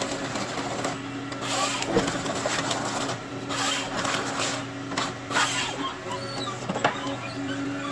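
Forestry harvester running with a steady engine hum, broken three times by short, hissing mechanical bursts from the working machine.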